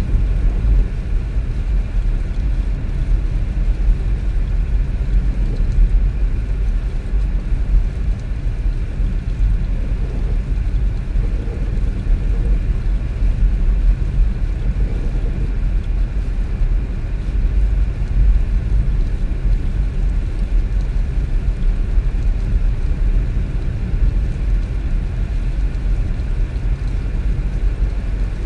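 A car driving along: a steady low rumble of engine and tyre noise.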